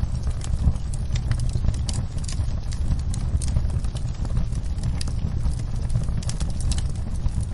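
Wood fire in a fireplace crackling, with irregular sharp pops, several a second, over a steady low rumble of the flames.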